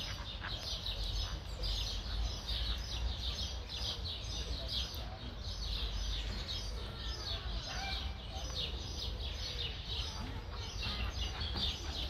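Small birds chirping continuously, short high chirps coming several times a second, over a steady low rumble.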